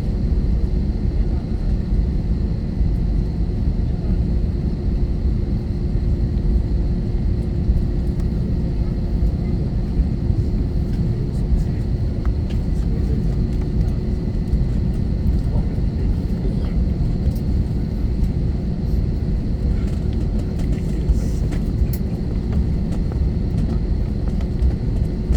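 Steady cabin rumble inside an Airbus A321-231, its IAE V2500 engines running at low, unchanging thrust, with a constant low hum over the roar.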